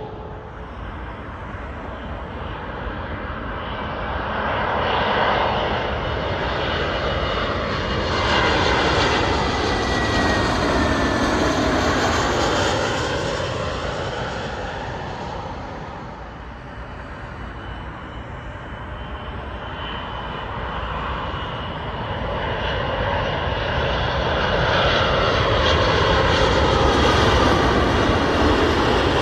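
Two jet airliners on final approach passing low overhead one after the other, first an Airbus A321neo, then a Boeing 787-9. Each one's turbofan noise swells, peaks and fades, with a whine that slides down in pitch as it goes over; the second begins to build about halfway through.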